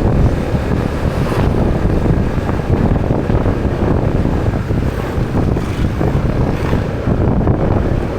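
Wind buffeting the microphone of a moving motorbike, with the bike's running engine and road noise underneath.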